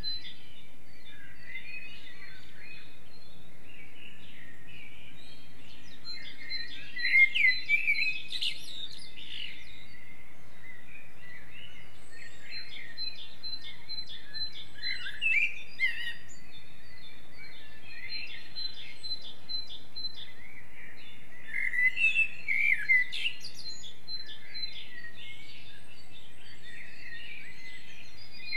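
Forest bird chorus: several songbirds singing and calling over one another, with a thin, steady high note running underneath and louder bursts of song a few times.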